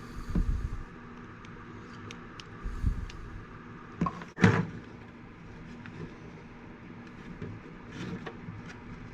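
Handling noises from fitting small plastic light pieces into a hard plastic RC truck body: light clicks and dull knocks, with two sharp clacks about four seconds in, over a steady low hum.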